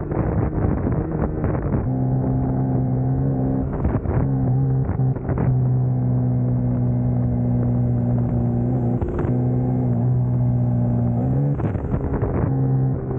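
Suzuki GSX-S150's single-cylinder engine pulling at steady revs while the bike is ridden, its note holding even for most of the stretch and rising slightly near the end. A few brief rushes of noise cut across it.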